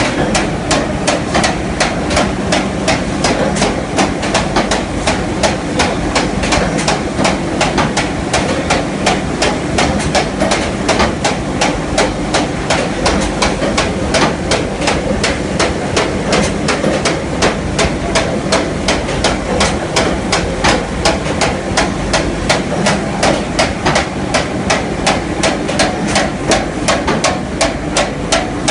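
Glass mosaic machine running, striking in a rapid, even knocking rhythm over a steady mechanical noise.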